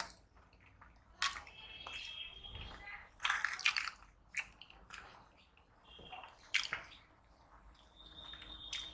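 Close-miked, wet, squishy chewing of puri with curry, with a few sharper mouth smacks about a second in, around three and a half seconds, and near six and a half seconds.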